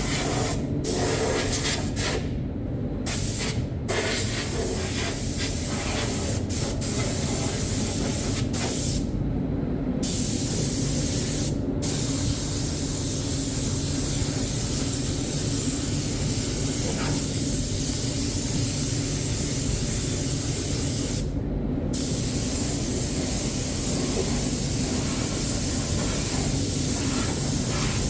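Compressed-air spray gun hissing as it sprays primer, in long passes broken by several short pauses where the trigger is let off. A steady low hum runs underneath.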